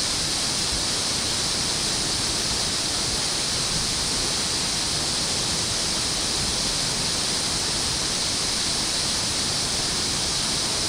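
Water rushing steadily through a dam outlet, an even hiss strongest in the high range that holds at one level throughout.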